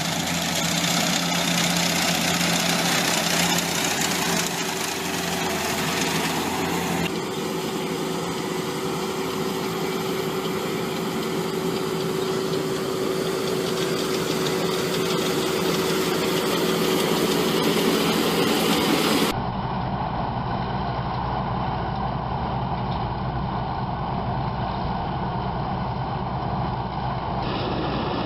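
Heavy farm machinery engines running steadily, with the sound changing abruptly about 7 and 19 seconds in as one machine gives way to another.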